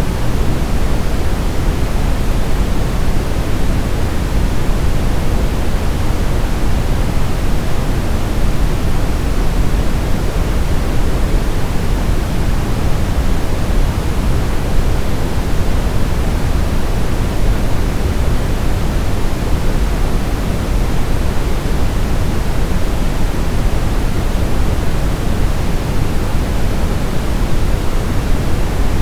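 Steady synthetic sleep noise, a constant hiss weighted toward the lows like pink noise, with no change or break.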